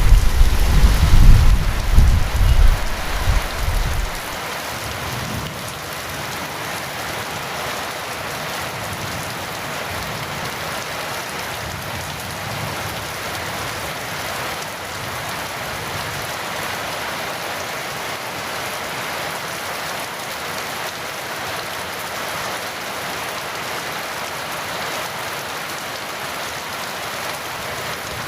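Heavy rain falling steadily. A low roll of thunder rumbles over the first four seconds and dies away.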